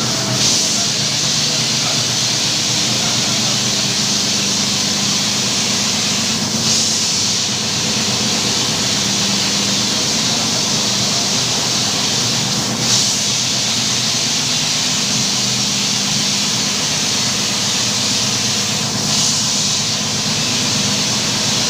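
Electric carpet-washing machine running steadily, a constant hiss over a low motor hum. The hiss swells briefly about every six seconds, in a regular cycle.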